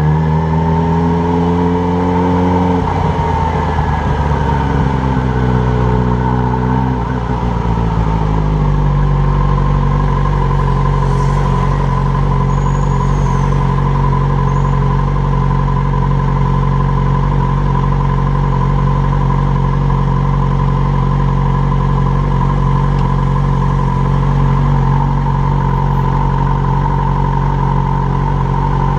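Yamaha motorcycle engine, heard from the handlebars: the revs rise in the first couple of seconds, fall away around six to eight seconds in as the bike slows, then it idles steadily while stopped.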